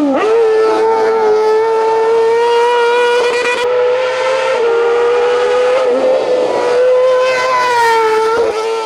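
Racing car engine held at high revs, flat out, giving a loud, steady high-pitched note. The pitch drops briefly at the start and again near the end, then climbs back.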